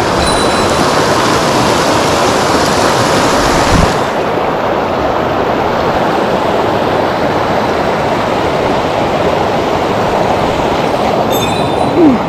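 Rushing water of a mountain stream, a steady loud hiss. About four seconds in there is a knock and the sound turns duller, and near the end there is a brief louder sound.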